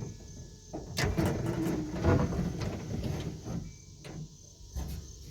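Metal parts inside a pickup truck door being worked by hand: a sharp click about a second in, then scraping and rubbing for about two seconds, and a few lighter clicks near the end.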